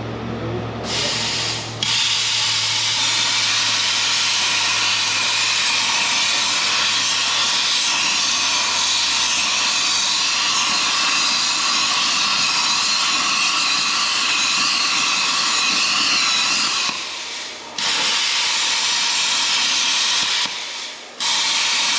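Steady hiss of a metal-cutting tool slicing a relief cut into a steel pin bushing of an excavator, to loosen it for removal. It starts about two seconds in and cuts out briefly twice near the end.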